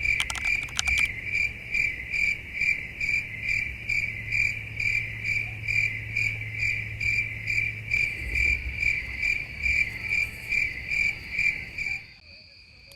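A cricket chirping in an even rhythm, about three to four chirps a second, over a low hum. Near the end the chirping and hum drop away suddenly, leaving a fainter steady trill at the same pitch.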